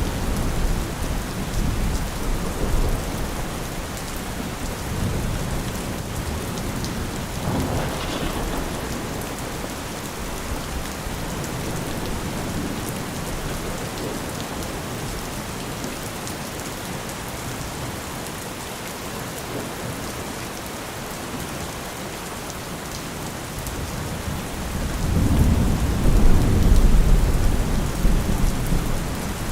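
Steady rain falling, with low rolling thunder rumbling under it. The thunder swells into its loudest, longest rumble near the end.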